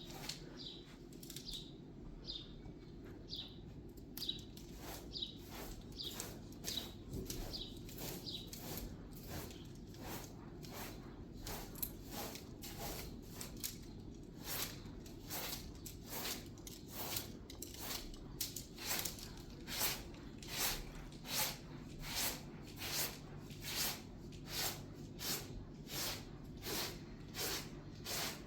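Rhythmic scraping strokes of a tool working wet cement, about three every two seconds, growing stronger in the second half.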